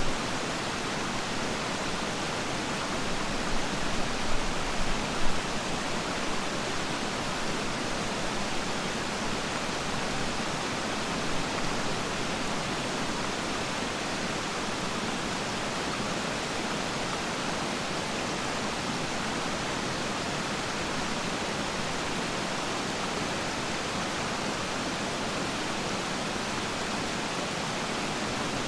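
Steady rush of falling and flowing water from a waterfall and its stream, with a few brief louder splashes about three to five seconds in.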